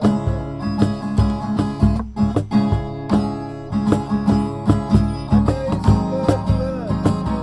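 Acoustic guitar strummed in a steady rhythm, playing an instrumental passage between sung verses.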